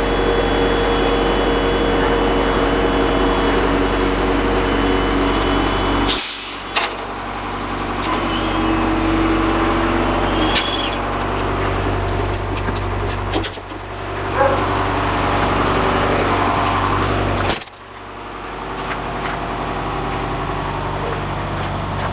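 Wheelchair lift's hydraulic pump motor running with a steady hum, cutting off sharply three times and starting again between stretches of a few seconds, with mechanical clatter in the pauses.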